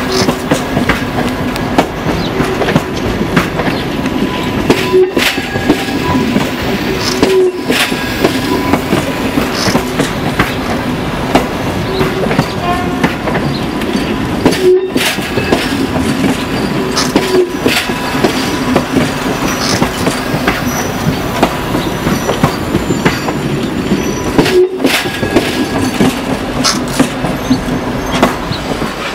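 The 'Allegro' high-speed electric multiple-unit train passing close by, its wheels clicking over the rail joints above a steady running noise and hum. The last car goes by near the end and the sound begins to drop away.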